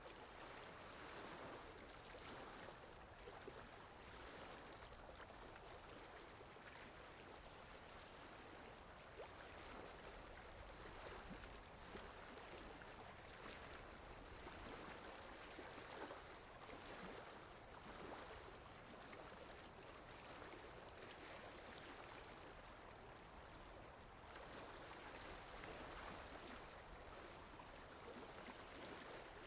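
Steady, soft rainfall: an even hiss of falling rain that swells and eases slightly, with no distinct drops standing out.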